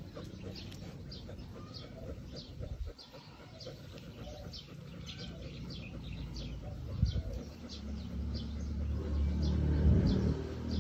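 A bird chirping over and over, short high chirps about twice a second, over a low rumble that grows louder in the second half.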